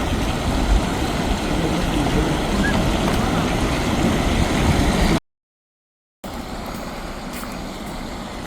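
Steady outdoor noise of flowing stream water and city traffic. Just after the middle it cuts out to dead silence for about a second, then comes back a little quieter.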